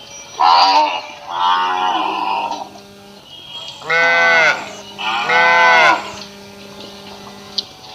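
Cow mooing: four separate moos, each lasting about half a second to a second, with pauses between them.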